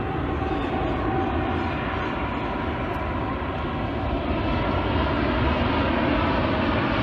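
Steady engine drone with a faint whine, growing a little louder in the second half.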